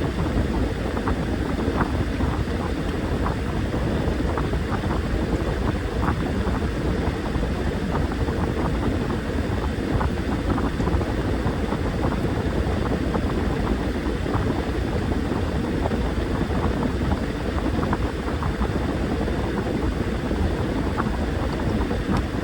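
Washing machine running a wash: a steady low rumble with water and laundry churning in the drum, full of small irregular splashes and knocks.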